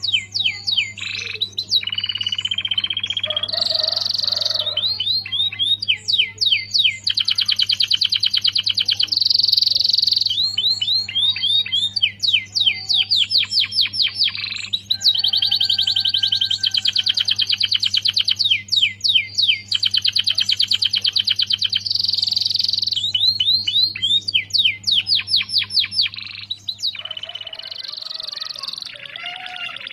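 Domestic canary singing a long, near-continuous song of fast trills and rapid repeated notes, its phrases including other birds' calls that it has learned as fill-in material. A low steady hum runs underneath and stops near the end.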